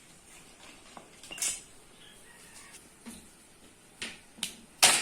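Metal utensil clinking and scraping against a cooking pan: a handful of separate knocks and short scrapes, the loudest a sharp clink near the end, as greens are stirred in the pan.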